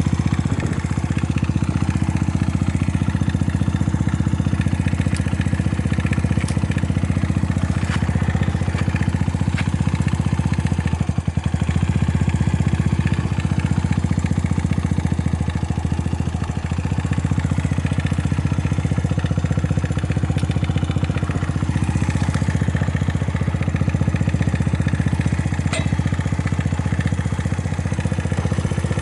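Honda Ape 50 FI's 49 cc single-cylinder four-stroke engine idling steadily, with no abnormal noises.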